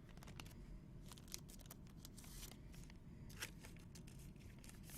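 Faint clicks and soft rustling of trading cards being handled and slid against one another, with a brief rustle about two seconds in.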